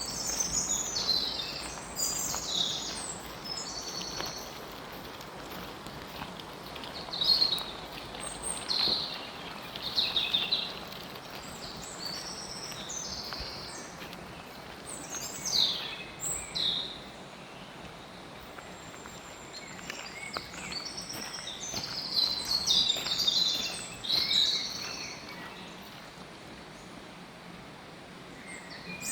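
Several songbirds singing and calling in bursts of chirps and trills, over a steady background noise.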